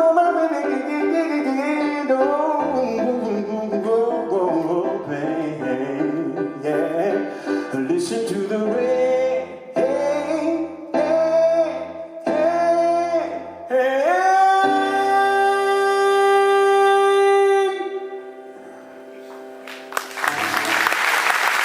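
Acoustic guitar and wordless singing closing a live song: a run of sung and played phrases, four short chord stabs about a second apart, then a final chord that rings for several seconds and stops. Audience applause starts near the end.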